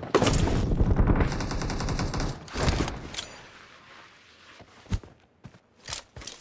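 Video-game automatic gunfire: a dense burst of rapid fire for about two seconds, then one loud shot, then a few fainter scattered shots.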